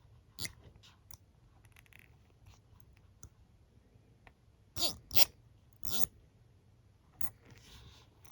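Comb and hairbrush handled and tapped close to the microphone: scattered short clicks and scratchy taps, the loudest a quick pair about five seconds in and another a second later, with a brief soft scratching near the end.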